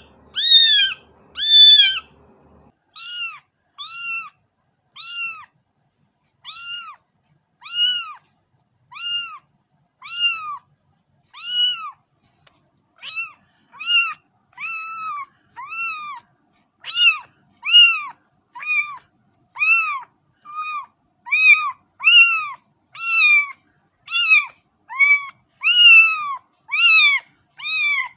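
A cat meowing over and over in short, high-pitched calls, about one a second, each call rising and then falling in pitch. The first two calls are the loudest.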